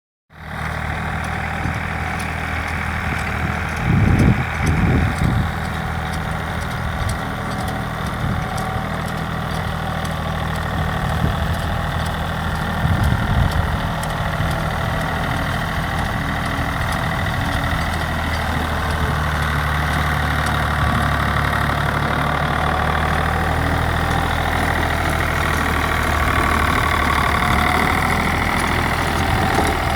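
Hinomoto N279 compact tractor engine running steadily at idle, with a few brief louder surges about four, five and thirteen seconds in.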